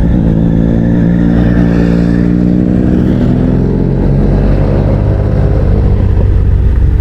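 Motorcycle engine pulling under acceleration, its note rising gently over the first few seconds and then easing. A steady low rumble of wind and road noise runs underneath.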